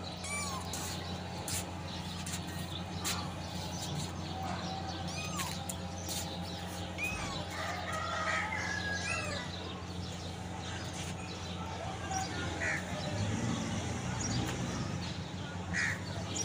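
Short, scattered bird chirps and calls over a steady low hum, with light clicks here and there.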